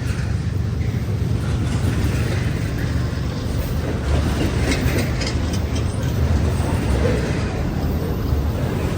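Freight train cars rolling past: a steady low rumble of steel wheels on the rails, with a few sharper clicks about halfway through.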